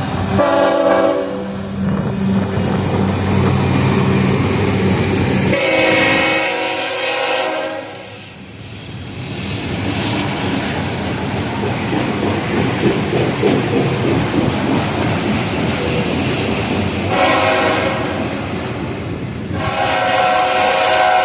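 Freight train led by a single GE Evolution-series diesel locomotive passing and sounding its multi-note air horn in four blasts: about a second in, around six seconds in, and twice near the end. A low diesel engine drone sounds under the first two blasts, then the steady wheel-on-rail rolling noise of the passing cars.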